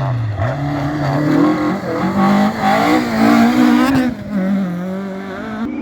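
Rally car engine revving hard as it drives through a stage, its pitch climbing and dipping with throttle and gear changes, then falling away about four seconds in.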